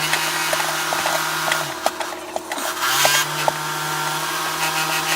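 DeWalt cordless power tool motor running steadily, stopping for about a second near the middle and then running again, with scattered sharp ticks and clicks from the work on the wooden frame.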